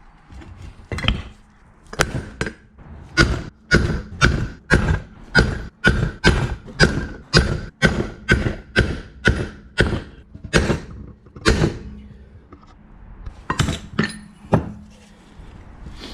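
Hammer blows driving a new wheel bearing into a rear brake drum: about twenty metal-on-metal strikes at roughly two a second, each with a short metallic ring, then a pause and a few more blows near the end.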